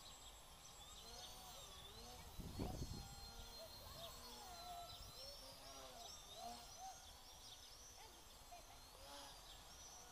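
Many birds calling faintly, lots of short overlapping rising-and-falling chirps. A low rumble of wind on the microphone comes about two and a half seconds in.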